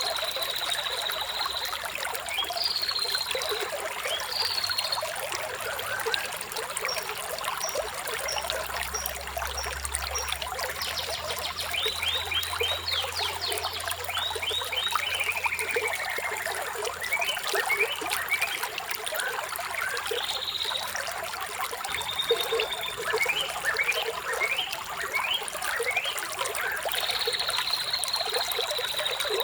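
Running water trickling steadily, with birds singing over it: a long high whistled note at the start and again near the end, and runs of quick chirps and sweeping notes in between.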